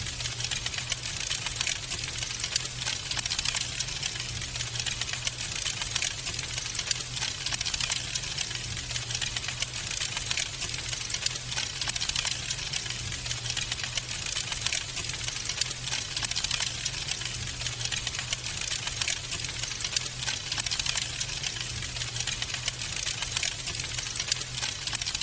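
Wood fire in a fireplace crackling steadily: a dense run of small snaps and pops, a few louder than the rest, over a low steady hum.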